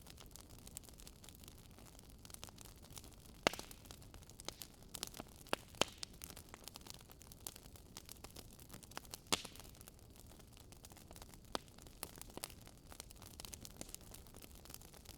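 Campfire burning, with irregular sharp crackles and pops over a low steady hiss. A few louder snaps come about three and a half, six and nine seconds in.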